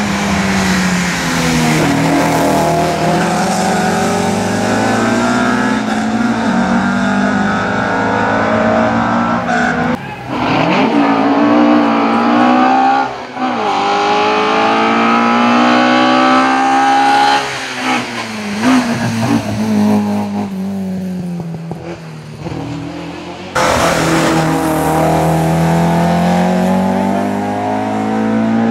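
Alfa Romeo 33 racing cars' flat-four boxer engines under hard acceleration, the pitch climbing through each gear and dropping at every upshift. Several passes follow one another, the sound changing abruptly between them.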